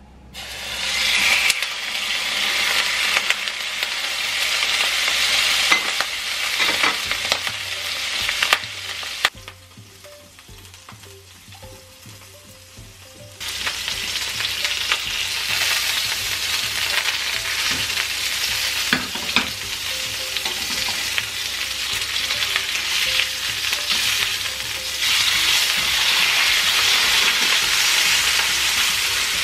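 Salmon steak sizzling in hot oil in a frying pan. The sizzle starts suddenly, drops away for a few seconds in the middle, then runs again, a little louder near the end. A few light clicks stand out over the sizzle.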